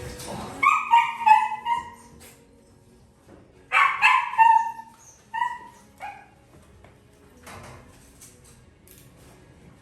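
A puppy yelping and whining in short, high cries that drop in pitch. The cries come in two bouts, about a second in and again around four seconds in.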